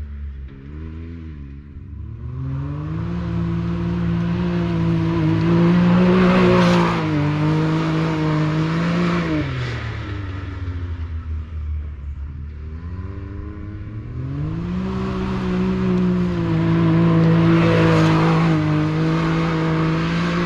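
Side-by-side UTV engine accelerating hard and holding high revs for about seven seconds on a timed uphill trail run, then dropping back to idle. This happens twice: one run after the other.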